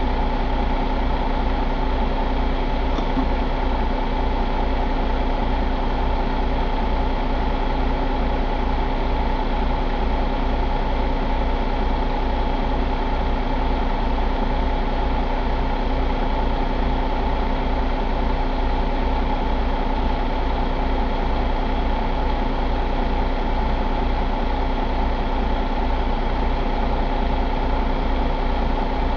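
2021 Cummins X15 inline-six diesel engine idling steadily at an even speed.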